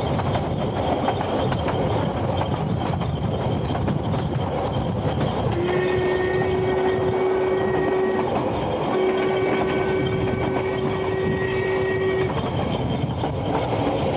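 Ffestiniog Railway narrow-gauge train running, a steady rumble of wheels on rail heard from aboard. About five seconds in, the locomotive sounds two long, steady blasts of about three seconds each, with a short gap between them.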